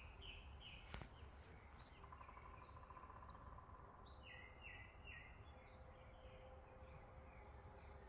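Faint outdoor ambience with small birds chirping: a quick run of short falling notes repeats about four times around four to five seconds in, over a low steady rumble.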